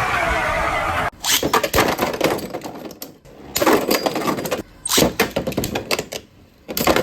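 About a second of steady noise, then several short bursts of hard plastic clicking and clattering from Beyblade spinning-top parts, with gaps between them.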